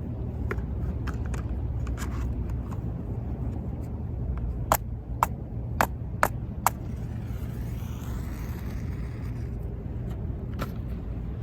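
Campfire wood crackling: a few faint pops, then a run of five sharp pops about halfway through and one more near the end. Underneath is a steady low rumble of wind and surf.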